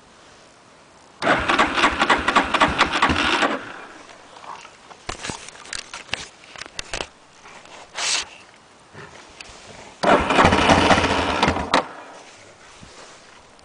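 Yamaha Warrior 350 ATV engine being cranked on a cold start with the choke out: two bursts of rapid cranking about two seconds each, the first about a second in and the second near the end, without the engine settling into an idle, with scattered clicks between them.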